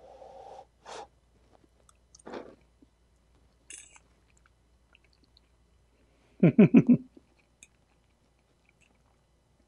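A person chewing a forkful of shakshuka (egg in tomato sauce), with soft, scattered mouth and fork sounds. About six and a half seconds in comes a short, loud voiced sound from the eater, with no words in it.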